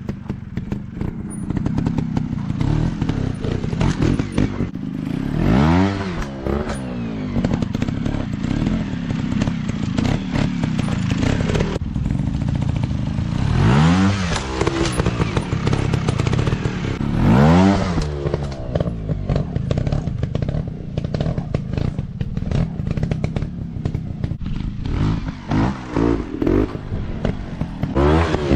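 Dirt bike engines running under varying throttle, with the revs shooting up and dropping back several times.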